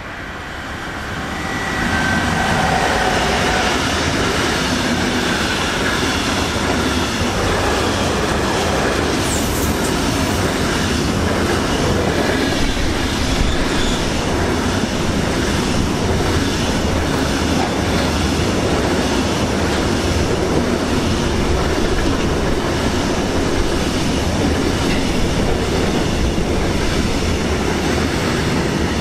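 A train passing close by. It builds over the first two seconds, then stays steady and loud, with the wheels clattering over the rails.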